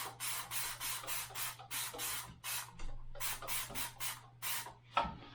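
Trigger spray bottle of Dawn Powerwash being pumped rapidly onto a dirty motorcycle carburetor: short hissing squirts, about three or four a second, with a brief pause partway through.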